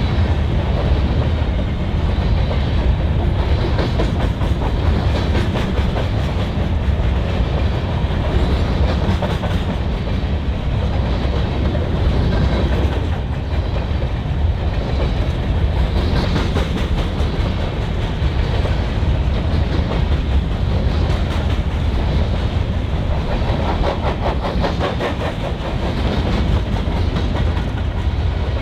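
Freight train cars rolling past in a steady, continuous rumble, with runs of rhythmic wheel clicks over the rails.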